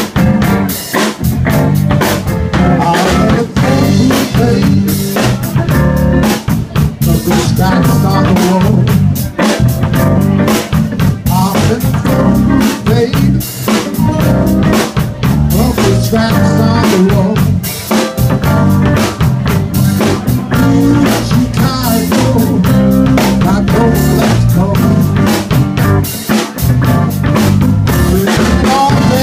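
Blues band playing a number on drum kit, guitar and bass, with a steady drum beat.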